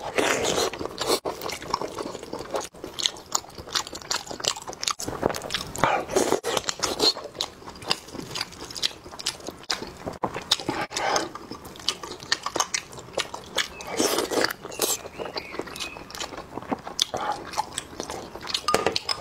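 Close-miked biting and chewing of sheep blood sausage, with irregular mouth clicks and smacks.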